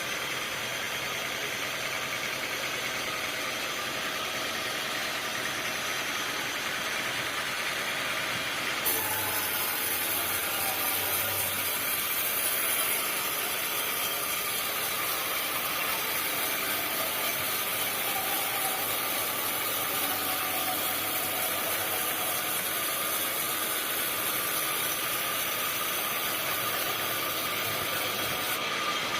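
Sawmill machinery running steadily with a mechanical engine drone. About a third of the way in, a high hiss starts suddenly and holds for about twenty seconds, stopping just before the end.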